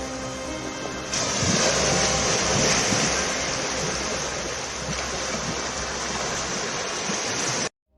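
Sea waves surging on a beach, a steady rushing wash that grows louder about a second in and cuts off suddenly near the end.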